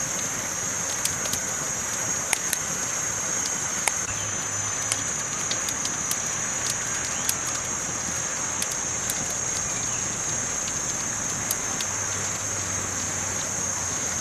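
Campfire crackling: a steady hiss with sharp pops and snaps scattered irregularly, several of them louder than the rest.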